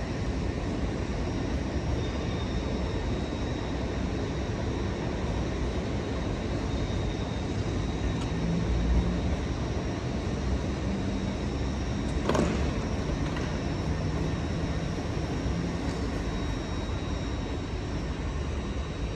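Steady rumble of trains standing at a mainline station platform, with a low engine hum that comes and goes and one sharp clank about twelve seconds in.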